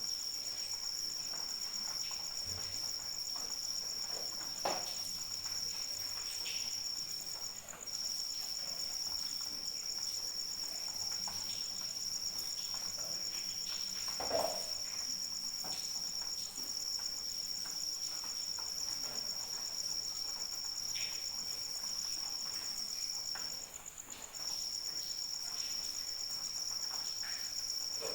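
Crickets trilling without a break, two steady high-pitched trills at slightly different pitches, the lower one stopping briefly twice. A few soft taps sound now and then.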